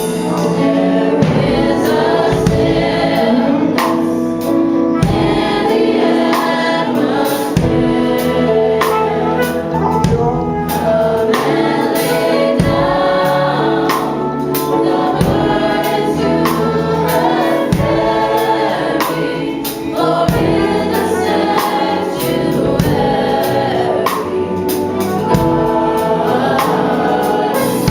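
A choir singing a gospel song with instrumental accompaniment and a steady beat.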